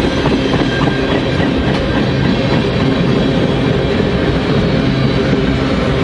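Freight cars (boxcars, a tank car, a flatcar) rolling past close by: loud, steady noise of steel wheels running on the rails.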